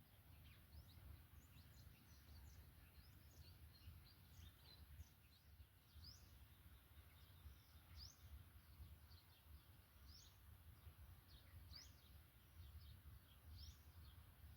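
Faint, short high-pitched bird chirps, scattered irregularly with a few clearer ones every second or two, over a low steady rumble.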